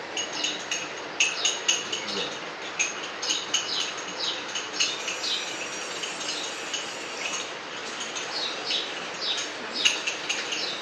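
Small birds chirping over and over, each chirp short and falling in pitch, over a steady background hiss.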